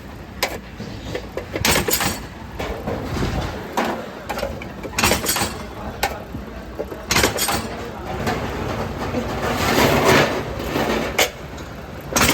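Irregular clanks and knocks of steel being handled and struck in a metalworking shop, over steady machinery noise. A louder rush of noise swells near the end and cuts off sharply.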